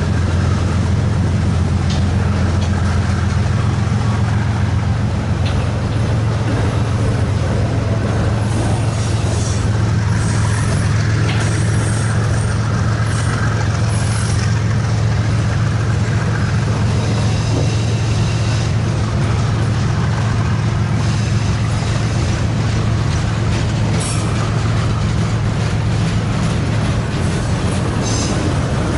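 Freight train rolling past: a steady low rumble, with scattered brief high-pitched squeals through the middle and near the end.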